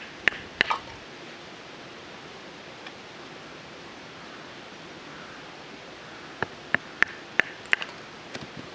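Sharp, short knocks and clicks from a knife and sticks being worked for a small fire: three near the start and a quick run of about six near the end, over a steady background hiss.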